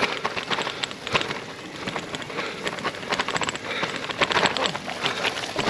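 Bicycles riding over a rough, frozen off-road track: a continuous crackle of tyres on the ground with many small rattles and knocks.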